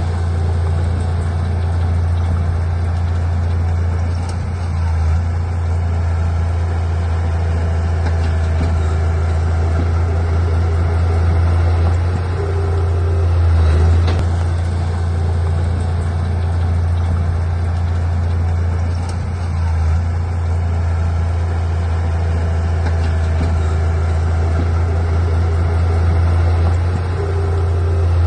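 Diesel engine of heavy earthmoving equipment running steadily with a deep low hum, its loudness swelling briefly a few times.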